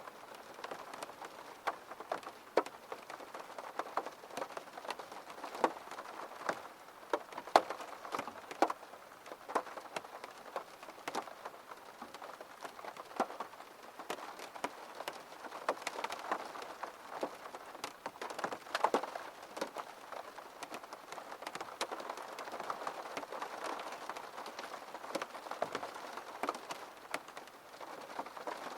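Steady rain, with many single drops tapping sharply on a hard surface at irregular moments.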